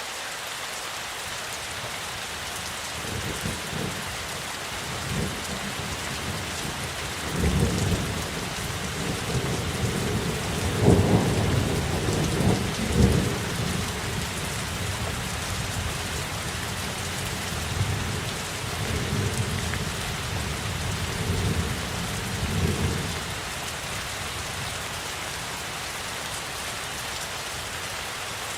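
Steady rain falling, with a long roll of thunder rumbling through it in several low swells. The thunder builds from a few seconds in, is loudest around the middle, and dies away a few seconds before the end.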